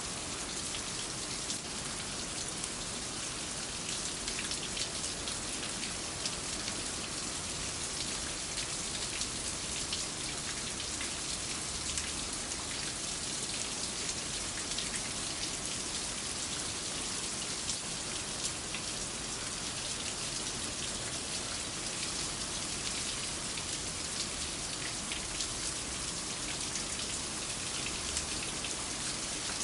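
Steady rain falling, with many individual drop hits heard distinctly over an even hiss.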